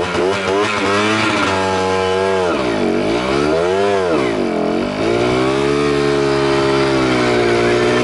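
Motorcycle engine revving hard, its pitch rising and falling quickly at first, dropping sharply and climbing back twice about halfway through, then holding at a steady high pitch.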